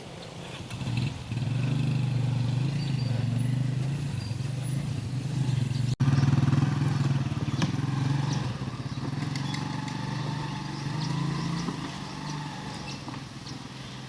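Small engine running steadily, typical of a motorcycle, starting about a second in and easing off near the end, with a sudden break about halfway through.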